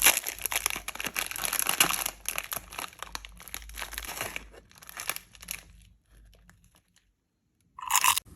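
Crinkling and tearing of a sweet wrapper, dense for about four seconds, then a few shorter rustles before it stops. A brief, louder sound comes near the end.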